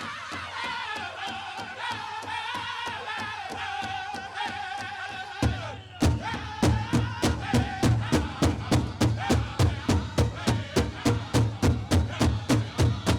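Pow wow drum group singing a chicken dance song: high voices in unison over a steady beat on a large powwow drum, about three beats a second. About six seconds in the drumbeats turn much louder and heavier.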